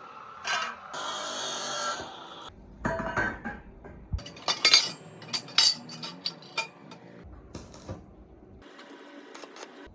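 Metal tools and parts clinking and knocking in a run of sharp clicks. There is also a short hiss lasting about a second, near the start.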